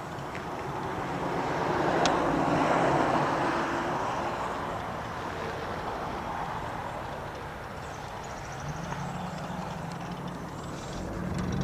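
Wind and rolling noise while riding an e-bike along a paved path: a steady rushing that swells louder for a couple of seconds about two seconds in.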